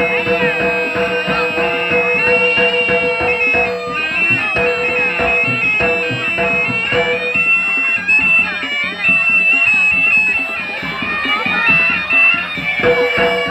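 Live jaranan music: a shrill reed shawm (slompret) plays a high, wavering melody over a held lower tone, with dense drumming and percussion beneath it.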